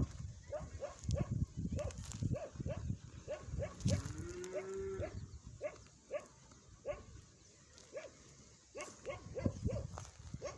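Farm animals calling outdoors: many short calls repeating in quick succession, with one longer, drawn-out call about four seconds in.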